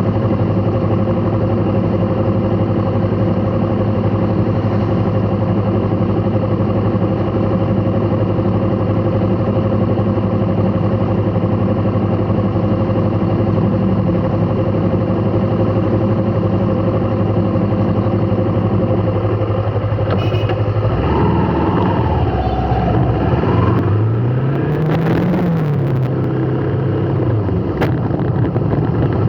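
Road vehicle engine running steadily at low revs. About 21 seconds in its note changes, and near the end it revs up briefly and drops back.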